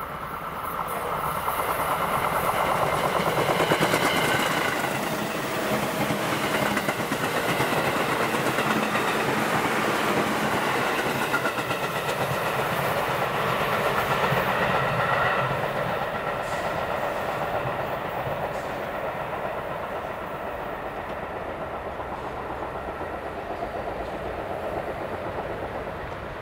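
JR East 205 series eight-car electric train passing: wheels clattering over the rail joints under a whining tone. It builds over the first two seconds, stays loud for about a dozen seconds, then eases off as the last cars go by.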